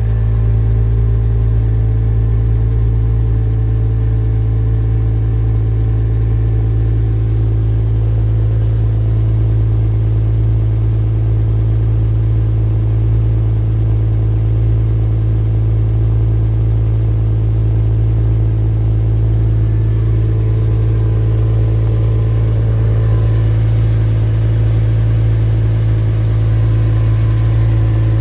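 2002 Porsche Boxster S's 3.2-litre flat-six idling steadily on a cold start, through a MagnaFlow exhaust. It holds an even, unchanging note with no revving.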